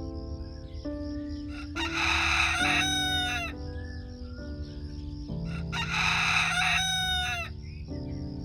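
A rooster crowing twice, each crow about a second and a half long and ending in a falling tail, over soft background music.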